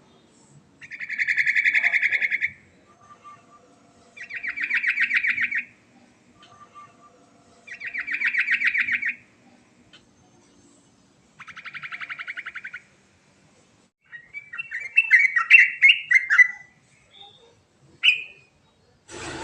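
Yellow-vented bulbul singing: four rapid rattling trills about three seconds apart, then a more varied chattering phrase and a short note near the end.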